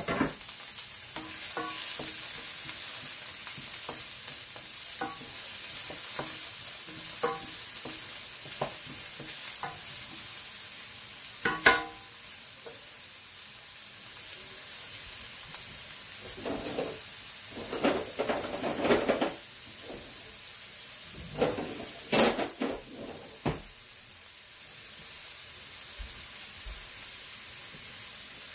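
Chopped garlic and onions sizzling steadily in hot oil in a stainless steel pan, with a scattering of sharp knocks and scrapes, loudest in a few clusters in the second half.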